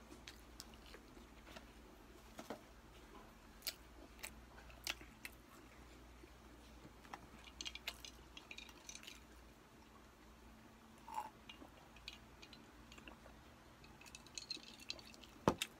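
Faint close-up eating sounds: chewing with small wet smacks and clicks of the mouth. Near the end, a short sip through a straw, then one sharp click.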